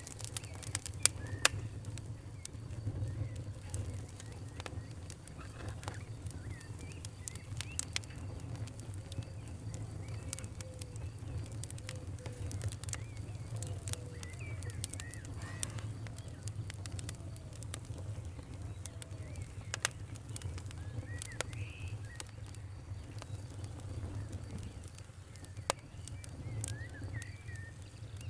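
Wood fire crackling, with scattered sharp pops and snaps over a steady low rumble; a few of the pops stand out louder than the rest. Birds chirp faintly now and then in the background.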